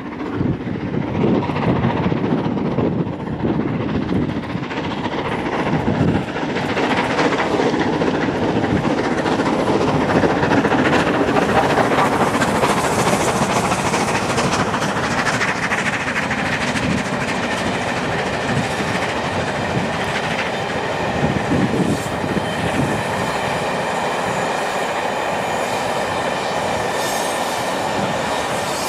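Steam locomotive passing with its exhaust beat, followed by its long rake of passenger coaches rolling by, wheels clicking over the rail joints. A thin squeal from the wheels on the curve comes in during the second half. A diesel locomotive at the rear passes near the end.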